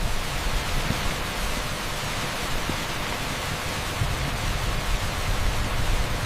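Torrential rain pouring onto an asphalt street: a steady, dense hiss with a low, churning rumble underneath.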